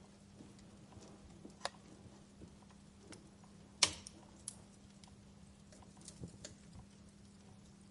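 Wood fire crackling in a fireplace: scattered small snaps and ticks, with one loud pop a little under four seconds in, over a faint steady low hum.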